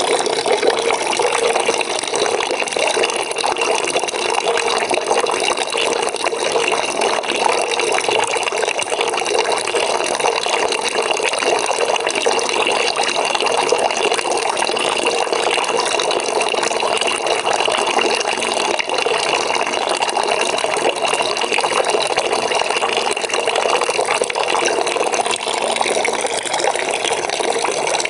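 Water pouring into a bucket as it fills: a steady, unbroken splashing rush.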